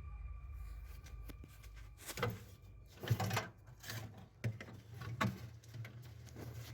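Hands working on fridge wiring: several short clicks, knocks and rustles, the loudest about three seconds in, over a steady low hum.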